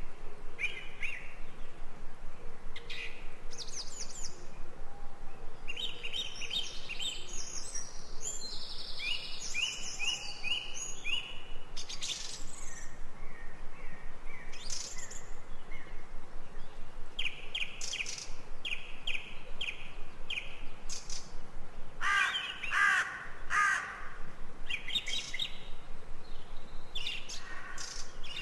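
Several birds singing and calling in a forest chorus: repeated high chirps and quick trills from different birds, with a lower, harsher run of calls about three quarters of the way through, over a steady background hiss.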